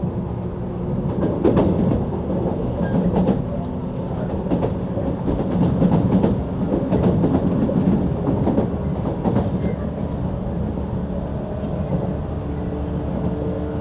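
JR 185 series electric train running, heard from inside the carriage: a steady rumble and hum of the running train, with wheels clicking over rail joints.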